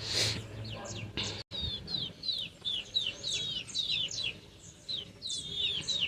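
A group of young chicks peeping: a steady stream of short, high, downward-sliding peeps, a few each second. A brief rustle near the start.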